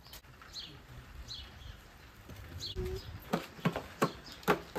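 Birds chirping, a few short falling calls, then four sharp knocks in quick succession near the end that are louder than the birdsong.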